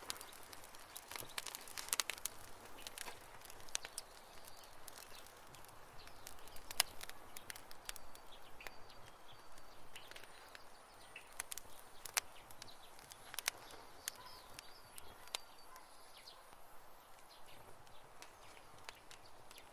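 Wood campfire crackling: irregular sharp pops and snaps over a soft hiss, thicker in the first few seconds and sparser after. A few faint high chirps sound in the background around the middle.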